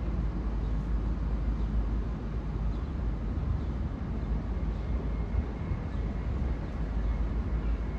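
New York City subway train running with a steady low rumble, with a faint high whine joining about five seconds in.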